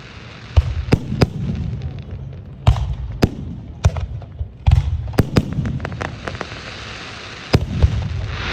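Aerial fireworks exploding: over a dozen sharp bangs in quick, irregular succession, each followed by a low rumbling boom, with a crackling hiss from the bursts filling the gaps.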